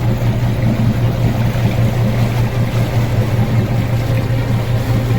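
Engine of a passenger boat running steadily under way, heard from on board as a constant low hum with a noisy wash over it.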